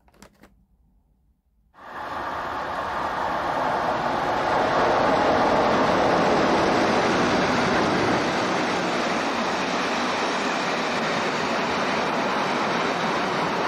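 Locomotive-hauled passenger train running past a station platform: a steady rush of wheel and carriage noise that starts suddenly about two seconds in and swells a couple of seconds later. Before it, near silence with a few faint clicks.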